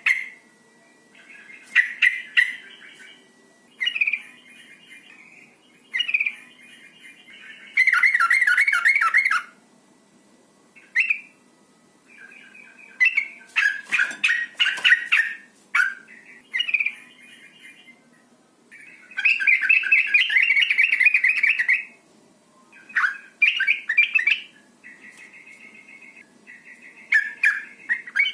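Yellow-vented bulbul (trucukan) calling: short chattering phrases a second or two apart, with longer rapid chattering bouts about eight seconds in and again around twenty seconds in. These are presented as a female's calls in breeding condition, used to get males calling.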